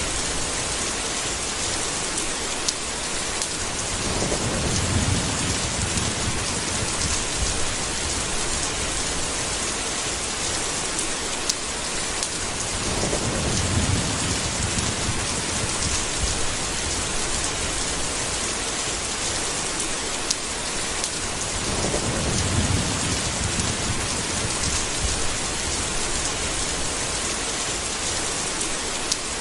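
Steady rain hiss with low rolls of thunder rumbling up three times, about nine seconds apart.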